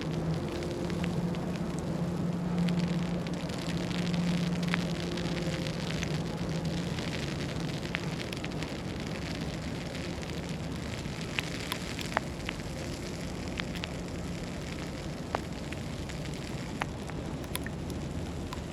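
City street ambience in a snowstorm: a steady hiss with scattered small crackles and ticks, and a low steady hum that fades after about seven seconds.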